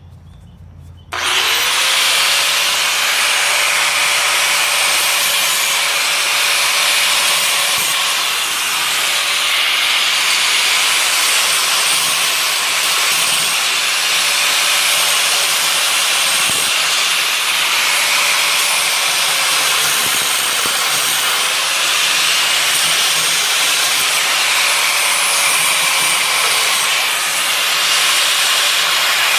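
Angle grinder spinning up about a second in, then running steadily, its pitch dipping briefly a few times as it bites into the metal of a hospital bed frame being cut apart.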